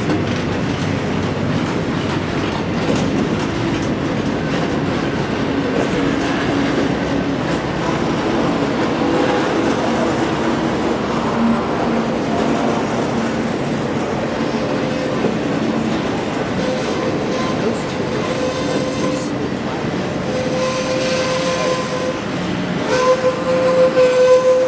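Freight train's container-laden well cars rolling past, a steady rumble and clatter of steel wheels on rail. In the second half steady squealing tones from the wheels join in, growing loudest near the end.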